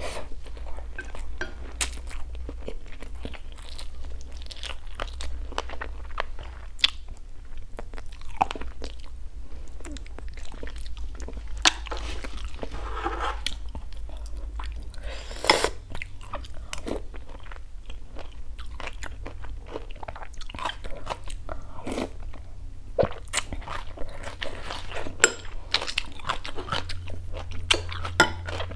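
Close-miked chewing and biting: stir-fried frog meat with small bones being chewed, giving wet mouth clicks and small crunches in an irregular, continuous stream.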